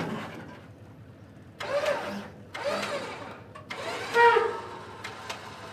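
Vehicle engine revving in three short bursts, the last the loudest, over a low steady engine run.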